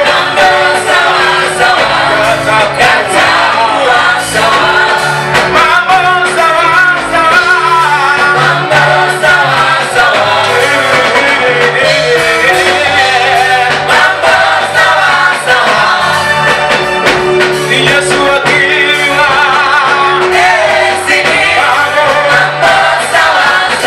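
Gospel praise song sung by a group of voices over amplified instruments with a steady beat.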